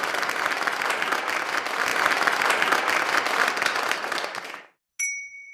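A crowd applauding, dense clapping that cuts off abruptly near the end. A short high ringing tone follows just after.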